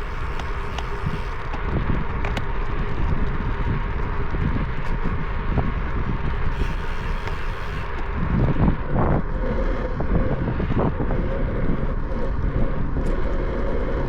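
Wind rushing over the microphone of a moving bicycle, a steady low rush with a faint steady hum running through it.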